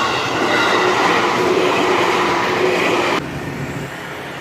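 Train passing close by on the tracks, a loud steady rolling rush that cuts off suddenly about three seconds in, leaving quieter road traffic noise.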